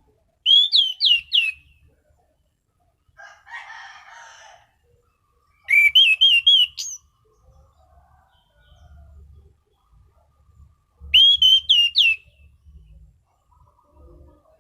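Orange-banded thrush (anis cendana) singing: three short loud bursts of three or four sharp, quickly bending whistled notes, about five seconds apart. A softer scratchy rustle comes between the first two bursts.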